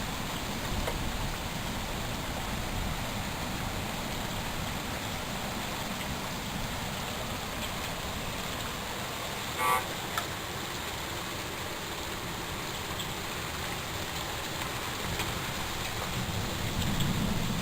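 Steady hiss of rainfall, with a brief pitched sound a little under ten seconds in.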